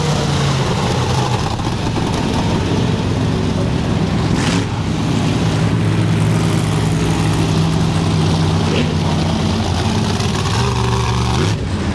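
Big monster truck engine running loud and steady, its pitch shifting a little near the end.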